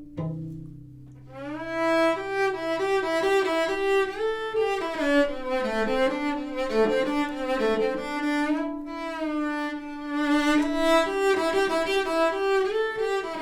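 Bowed cello playing an instrumental passage. A low note fades away in the first second, then a quick, high melody runs over a held lower note.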